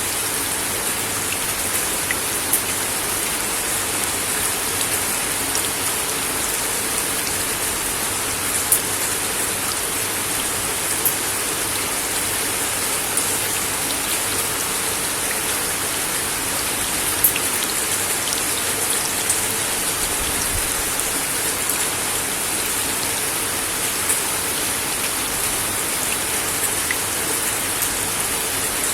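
Steady rain falling on a wooden deck: a dense, even hiss with a scattering of louder individual drop impacts.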